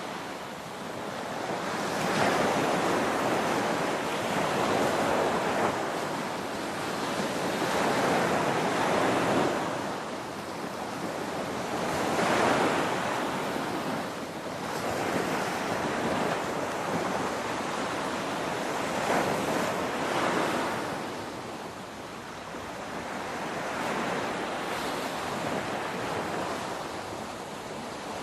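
Ocean waves breaking on a shore: a continuous rushing wash that swells and ebbs every few seconds as each wave crashes and draws back.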